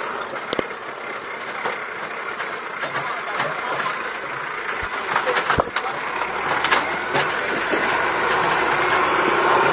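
Steady engine and road noise of an open-backed passenger truck (pau de arara), heard while riding in it, with scattered knocks and clicks. A low rumble joins about six seconds in.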